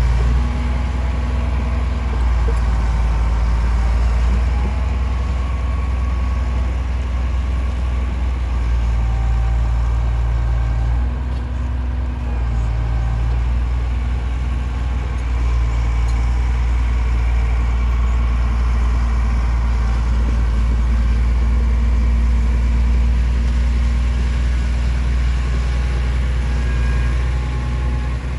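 Heavy diesel engine of earthmoving machinery running steadily with a deep, constant drone, its note rising and dipping slightly now and then.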